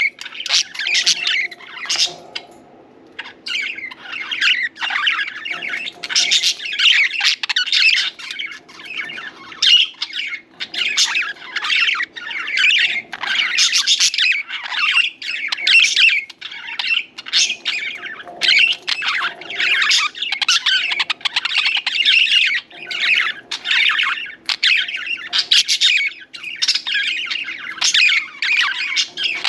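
Several budgerigars chattering and chirping in rapid, high warbling runs, with a short lull about two to three seconds in.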